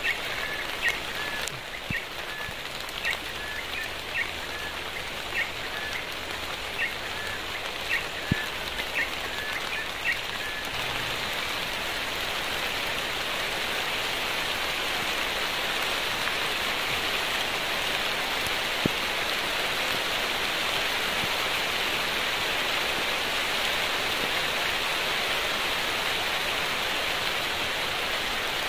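Steady rain falling, growing heavier about eleven seconds in. Short high chirps repeat over it during the first ten seconds.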